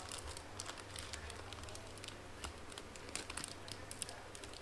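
Faint, irregular crackles and ticks of a clear cellophane sleeve being handled and folded.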